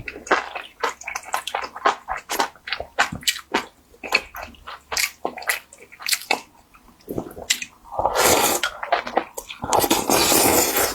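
Close-miked wet eating sounds: chewing and lip-smacking in quick, irregular clicks, with two longer slurps about 8 and 10 seconds in.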